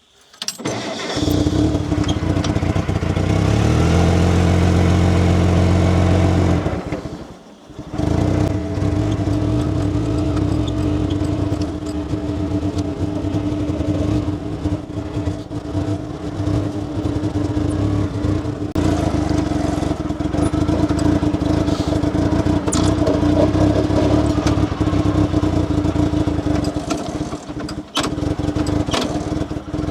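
Ute's engine running as it drives, a steady drone with road noise; the sound drops away briefly about seven seconds in, then carries on.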